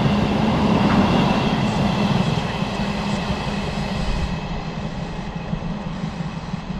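A train passing on the line, its running noise with a steady low hum, slowly fading over the second half.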